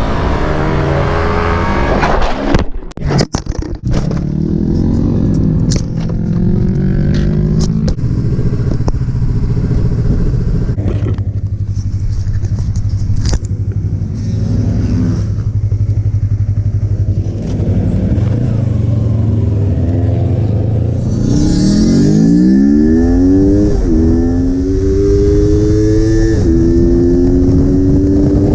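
Yamaha R3 motorcycle's parallel-twin engine heard on board at a track: revs falling as it slows, a brief choppy break with clicks a few seconds in, then steady part-throttle running. About three quarters of the way through it revs up hard and shifts up twice, the pitch dropping at each shift.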